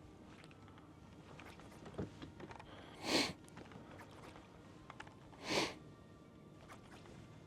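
Two short, sharp sniffs through the nose, about two and a half seconds apart.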